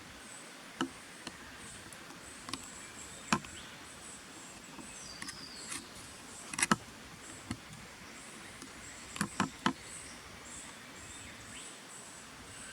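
Outdoor backyard ambience: insects giving a steady, pulsing high-pitched trill, with a handful of sharp clicks and one brief high falling bird note about five seconds in.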